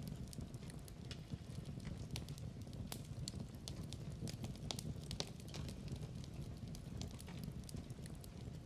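Wood fire in a fireplace crackling: irregular sharp pops and snaps over a steady low rumble of the burning logs.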